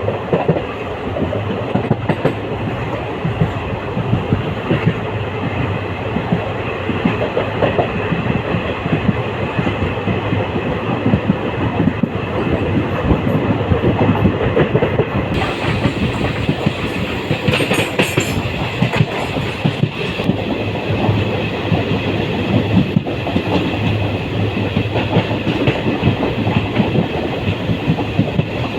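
Passenger train running along the track, its wheels clattering steadily over the rails, with extra hiss and rattle coming in about halfway through.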